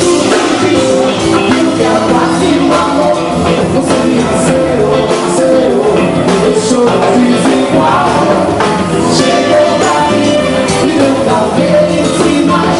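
A band playing a song live, with singing over the instruments.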